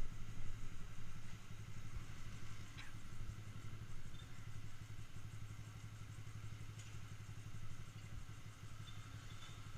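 Yamaha Jupiter MX motorcycle's single-cylinder four-stroke engine, fitted with a DBS aftermarket exhaust, running at a steady engine speed with an even exhaust note.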